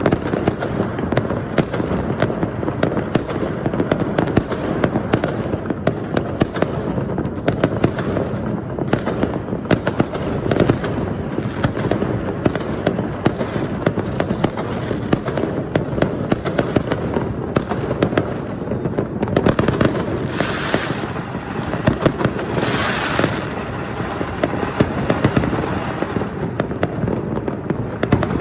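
A dense, continuous barrage of firecrackers and fireworks going off, with countless overlapping pops and cracks and no pause. Two short hissing rushes rise above it about two-thirds of the way through.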